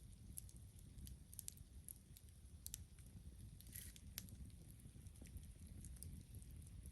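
Campfire crackling faintly: sparse, irregular small pops and snaps over a low steady rumble.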